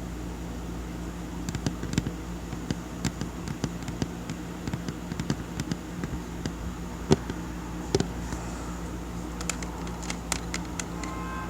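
Slow, irregular tapping on a table, mostly light taps with a couple of sharper ones past the middle, over a steady low hum.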